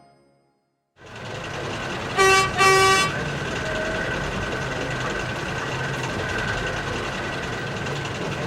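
A horn toots twice, short and loud, over a steady engine rumble that starts about a second in.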